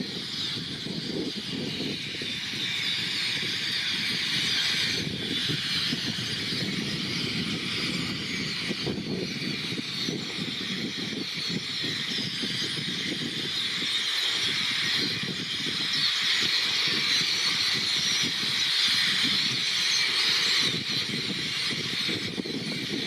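A huge flock of blackbirds and red-winged blackbirds calling all at once: a dense, unbroken wash of high, squeaky chatter, over a steady low rumble.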